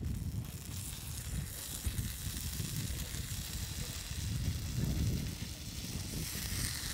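An adobo-dipped tortilla taco sizzling on a hot steel plancha over a wood fire, an even frying hiss over a low rumble.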